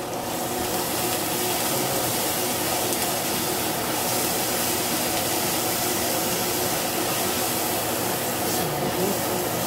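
Pork and shrimp paste sizzling steadily as they fry in a stainless saucepan and are stirred with a spatula, over the steady whir of an electric fan.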